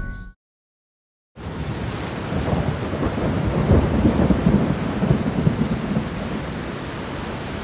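Steady rain with a low rolling rumble of thunder that swells about two seconds after the rain starts and then eases off. The storm comes in after a second of silence.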